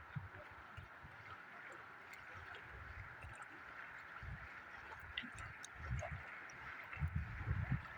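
Faint, quietly gurgling water, with irregular low rumbles that grow stronger near the end.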